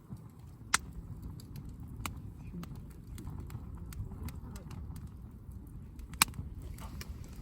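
Campfire crackling, with scattered sharp pops from the burning wood, two loud ones about a second in and near the end, over the indistinct talk of people around the fire.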